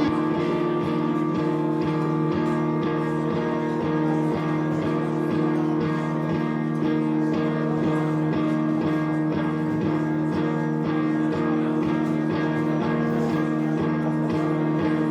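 Instrumental music: a guitar picked in a steady, even rhythm over held chord tones.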